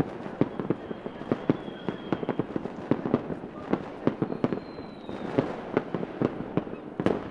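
Fireworks going off in a rapid, irregular string of bangs and crackles, several a second, with faint high whistles that fall slightly in pitch now and then.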